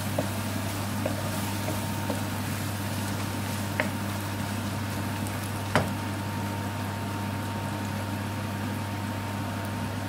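Sliced onions and spices frying gently in oil in a pan: a steady soft sizzle over a constant low hum, with two light knocks about two seconds apart near the middle.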